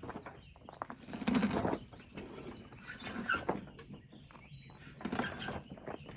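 Footsteps and the wheels of a Snapper riding mower being pushed by hand: uneven scuffing bursts every second or two.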